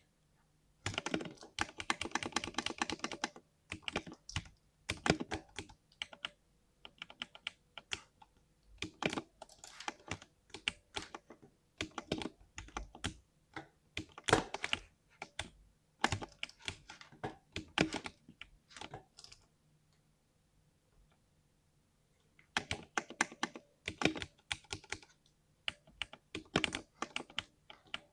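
Typing on a 60% mechanical keyboard: bursts of deep, 'thocky' keystrokes, with a fast flurry just after the start and a pause of about three seconds past the middle.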